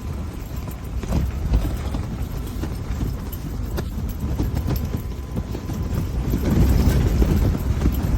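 Strong wind buffeting the microphone: an uneven, gusty low rumble with scattered thumps, growing louder about six and a half seconds in.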